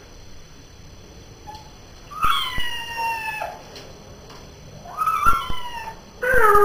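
A pet cat meowing in a bath: two long, drawn-out meows that slide down in pitch, and a third beginning near the end.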